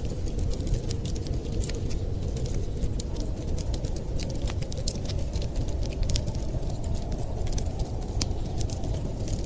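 Fire crackling with frequent small, sharp, irregular pops over a steady low rumbling noise.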